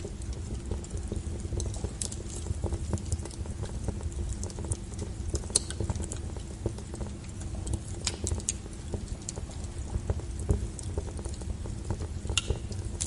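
Wood fire crackling: a steady low rumble of burning logs with irregular sharp crackles and a few louder pops.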